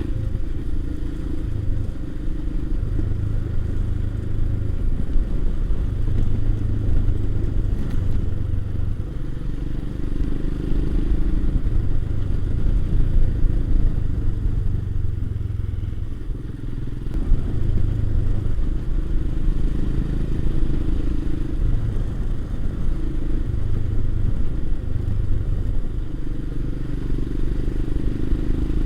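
Motorcycle engine running under way, mixed with low wind rumble. The engine note rises and falls with the throttle and gear changes, and eases off briefly about halfway through before picking up again.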